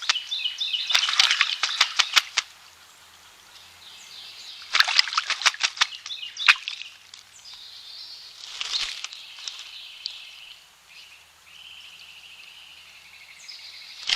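American crow bathing, beating its wings in the water in three bursts of quick splashes. Small birds sing in the background.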